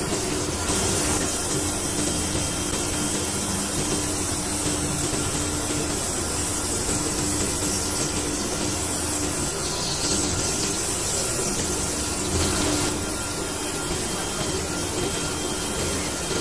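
Steady workshop machinery noise: a constant hum under a high hiss, the hiss easing off about thirteen seconds in.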